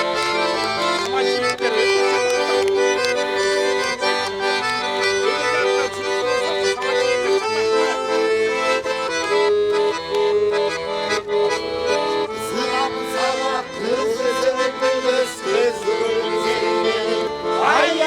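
Accordion music in a traditional style: held chords under a melody, the notes changing every half second or so.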